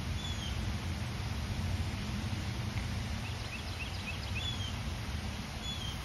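Small birds chirping in the background: a few single short slurred whistles and a quick run of chirps about halfway through, over a steady low outdoor rumble.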